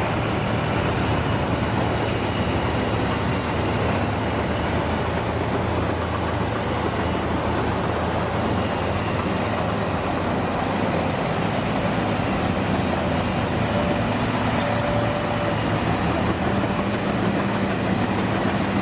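Heavy vehicle engine running steadily with a constant low rumble.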